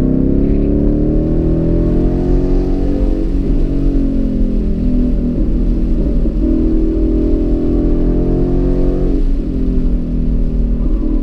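2015 Ford Mustang GT's 5.0-litre V8 heard from inside the cabin under hard track driving: the revs climb over the first couple of seconds, ease back in the middle, then hold and dip briefly near the end as the driver comes off the throttle for a corner.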